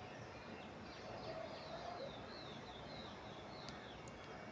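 Faint dawn birdsong: birds chirping, with a quick series of high, falling notes near the middle and a lower call about a second in, over a steady background hiss.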